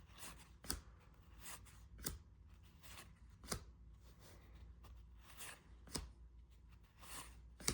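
Baseball cards being handled and flipped through one by one: faint sliding of card stock with a short, sharp click every second or two as each card is moved off the stack.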